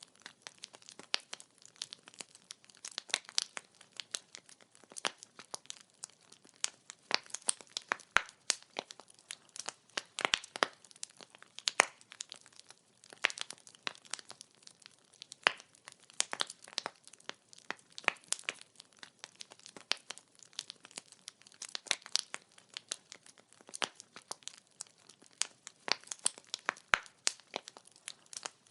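Wood fire crackling: burning firewood giving off irregular sharp snaps and pops, several a second, some much louder than others.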